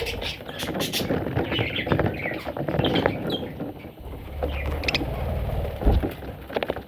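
Budgerigar chicks giving short, high chirps and squeaks, with rustling and scratching of movement around them and a brief low thump near the end.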